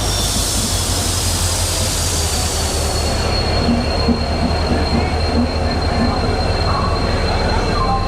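A train moving on the tracks beside a station platform, with a heavy low rumble throughout. A thin, high wheel squeal slides slightly down in pitch over the first three seconds and then holds steady. A hiss sounds over the same first three seconds.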